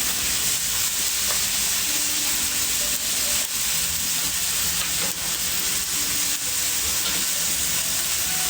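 Steady sizzling hiss of cooking over a burning wood fire.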